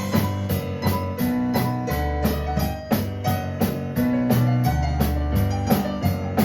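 A live band playing an instrumental passage: electric keyboard chords over held bass notes, with a steady high tick from the drum kit's cymbals, about three to four a second.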